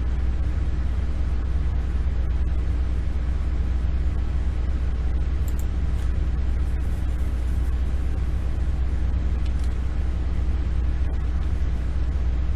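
Steady low hum and rumble of background noise, unchanging throughout, with a few faint clicks.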